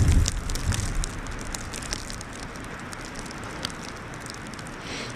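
Wind gusting on the microphone for about the first second, then easing to a steady outdoor hiss with scattered sharp crackling ticks.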